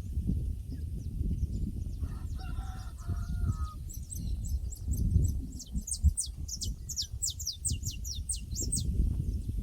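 Pasture ambience over a low rumble: a distant rooster crows once, about two seconds in. Then a small bird sings a rapid run of high, downward-sweeping notes for several seconds.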